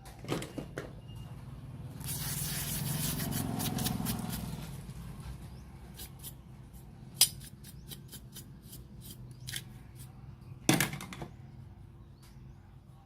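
Aerosol spray hissing for about three seconds, with scattered sharp clicks and knocks of handling before and after it, the loudest near the middle and about three quarters of the way through.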